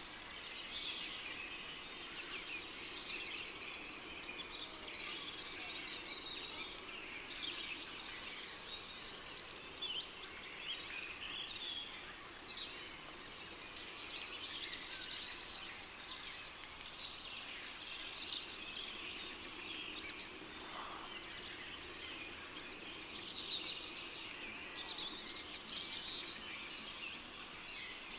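Rainforest ambience: a cricket chirps in a steady, high-pitched pulse of about three chirps a second, pausing briefly a few times, over scattered bird calls and other insects.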